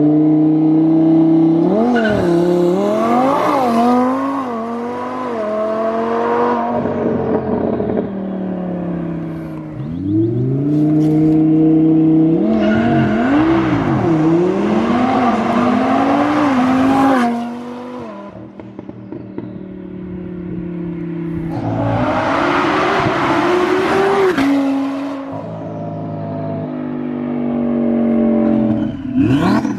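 Twin-turbo Lamborghini Huracán 5.2-litre V10 pulling hard three times. Its pitch climbs and jumps through quick gear changes with a loud rushing noise on each pull, then falls back as it eases off between pulls.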